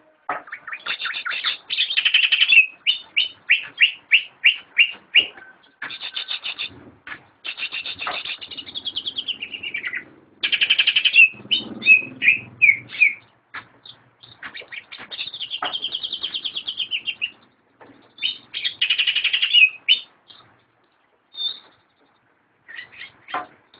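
Green leafbird (cucak ijo) singing: fast, repeated strings of high chirps and trills in phrases of a second or two, with short pauses between them and a longer pause near the end.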